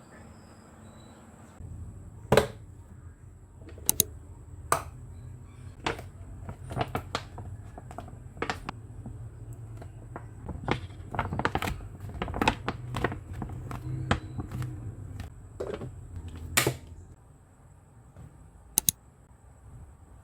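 Objects being handled indoors: a string of sharp knocks and clicks at uneven spacing over a steady low hum that starts about two seconds in and stops near the end, followed by a quick double click.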